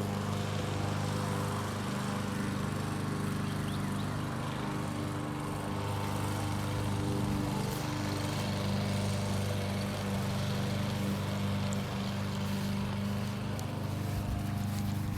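An engine running steadily at a constant speed, a low even hum that doesn't change.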